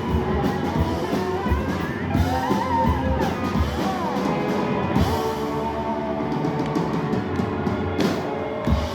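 Live rock band with drum kit and electric guitar playing the closing bars of a song, with sliding guitar lines over steady drums, ending on a loud final hit near the end.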